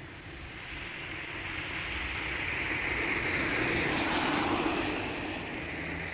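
A vehicle passing on the road, its tyre and engine noise swelling to a peak about four seconds in and fading near the end.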